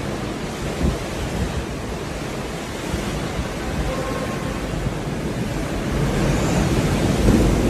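Hurricane wind and storm-surge water rushing in a steady, loud wash of noise, with gusts buffeting the phone's microphone.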